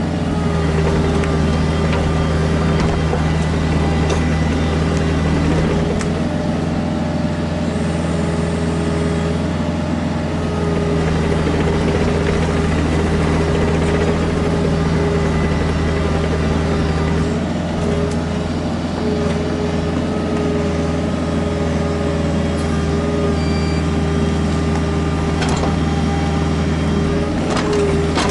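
Kubota KX121-3 mini excavator's diesel engine running steadily at working speed, with slight changes in pitch as the hydraulics take load.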